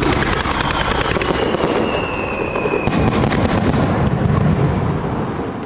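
Fireworks going off: a sudden loud burst at the start, then dense crackling and popping, with a whistle falling slightly in pitch in the middle and a second loud burst about three seconds in, dying away near the end.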